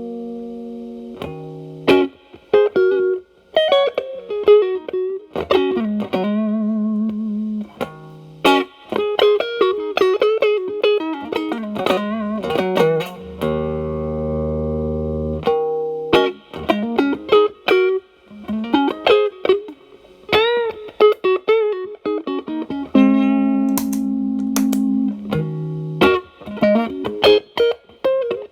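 Fender Telecaster played through an Xotic BB-series overdrive pedal set to gain 8 into a Marshall Valvestate amp's clean channel. It plays bluesy lead lines with string bends and vibrato, broken by held, ringing chords.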